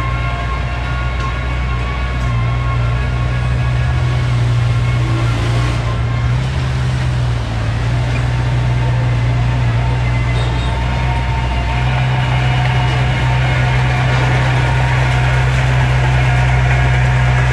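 Diesel engine of heavy earthmoving equipment running steadily at an even pitch.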